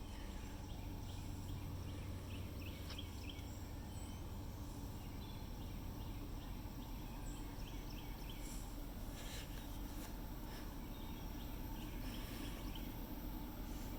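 Steady low rumble of an approaching freight train's diesel locomotives, with faint short high chirps scattered over it.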